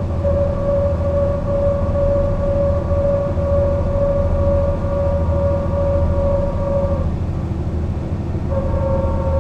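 Mercedes-Benz O 405 NÜ bus driving, its straight-six diesel giving a steady low rumble with a steady high whine over it. The whine drops out for about a second and a half near the end, then comes back at the same pitch.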